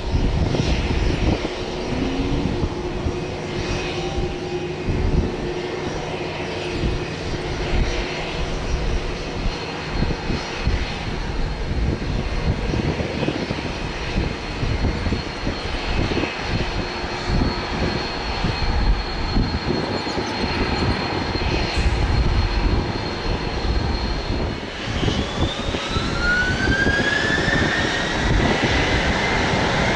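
Aircraft engines running with a low rumble and a steady whine. About 25 seconds in, a rising whine begins as the engines spool up.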